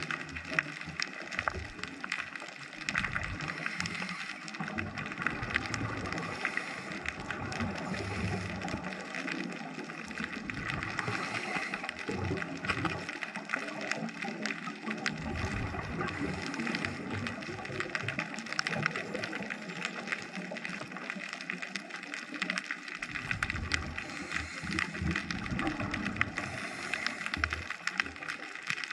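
Underwater ambience picked up by a GoPro in its housing: a dense, steady crackle of tiny clicks, with irregular low bubbling rumbles every few seconds.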